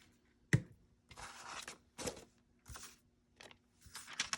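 Paper rustling and crinkling in several short bursts as paper pieces are handled, with a single sharp knock on the desk about half a second in.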